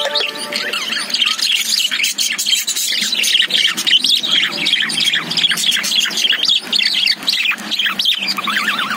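Several small caged parrots, budgerigars and lovebirds, chirping without a break in quick, overlapping high notes.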